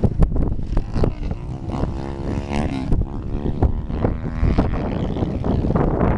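Two-stroke dirt bike engine running and revving, its pitch rising and falling in the middle.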